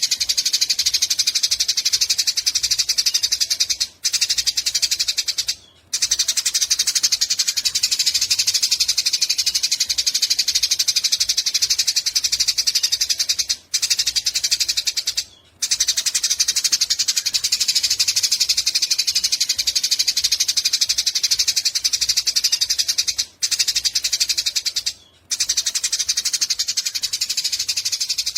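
Eurasian tree sparrow giving a long, very rapid, high chattering rattle (the 'nyecret panjang' call), broken by a handful of brief pauses.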